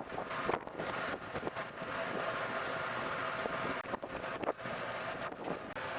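A steady mechanical drone mixed with wind noise on the microphone, with a few brief dropouts.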